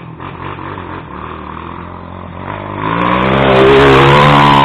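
Off-road motorcycle engine under hard throttle, growing much louder about three seconds in and then holding a steady high rev.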